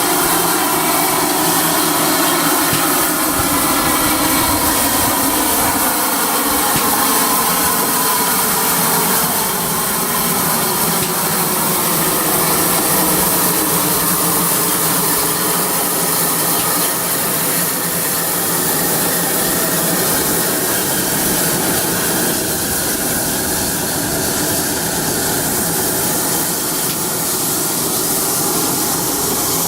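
Steam locomotive 6695 and its train running, with a steady hiss of steam over the rumble of the train. A tone falls slowly in pitch over the first ten seconds or so.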